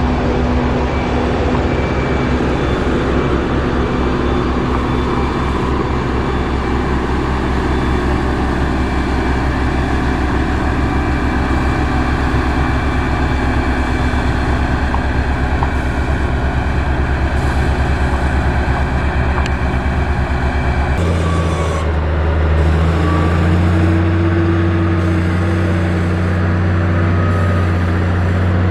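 Heavy diesel engines of road-construction machinery running steadily. About 21 seconds in, the sound switches abruptly to another engine with a deeper, steadier hum.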